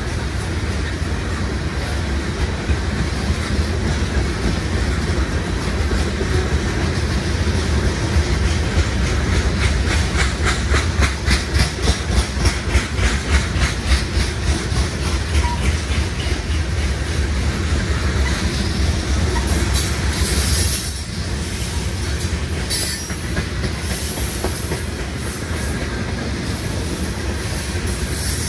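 Freight train of open-top gondola cars rolling past close by: a steady low rumble with a regular clickety-clack of wheels over rail joints, loudest about a third of the way through. A few brief high wheel squeals come about two-thirds of the way in.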